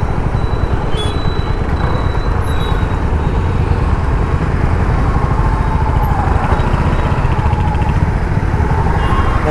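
Royal Enfield Hunter 350's single-cylinder engine and exhaust running steadily under way, heard from on the bike, with the low, rapid thump of its exhaust beats over road and traffic noise.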